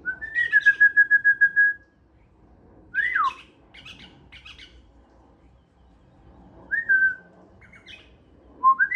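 Male pale-headed rosella singing: a series of clear whistled phrases. It opens with a rising note that breaks into a fast stuttering trill, gives a falling whistle followed by soft chattering notes, and ends with another rising trill.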